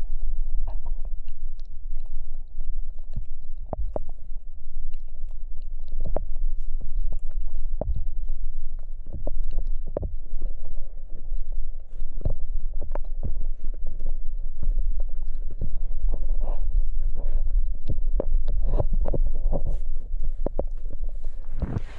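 Off-road vehicle on snow chains driving uphill through fresh snow: a loud, steady low rumble with frequent short knocks and clunks from the chained wheels and running gear.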